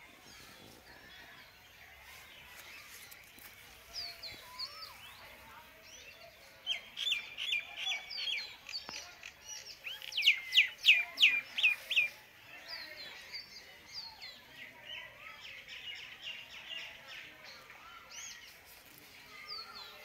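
Small birds chirping and calling over a faint outdoor background, with a louder run of quick repeated sharp notes in the middle.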